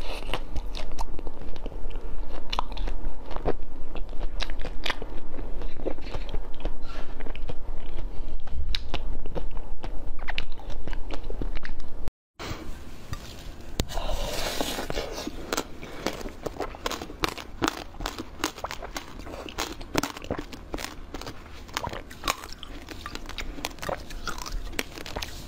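Close-miked biting and chewing of food, full of short sharp clicks. A brief break about twelve seconds in, after which the chewing goes on more softly.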